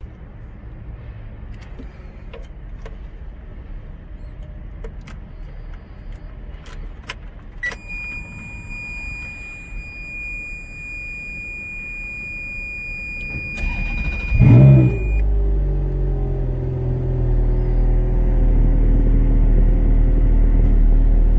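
Ferrari F430 Scuderia's V8 being started: a steady high electronic tone sounds for several seconds after a few clicks, then the starter cranks and the engine catches with a loud flare of revs about two-thirds of the way in. It then settles into a steady idle that grows a little louder near the end.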